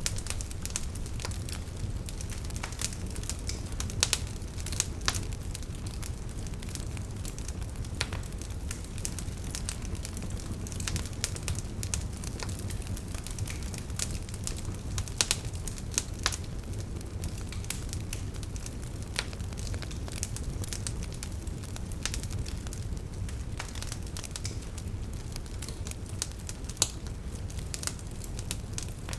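Wood fire in a fireplace crackling, with irregular sharp pops over a low steady rumble. A few pops stand out louder, about four and five seconds in, around fifteen to sixteen seconds, and near the end.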